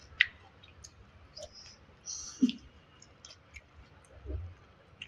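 Close-up eating sounds: wet mouth clicks and smacks while chewing rice and curry, with a louder smack about two and a half seconds in.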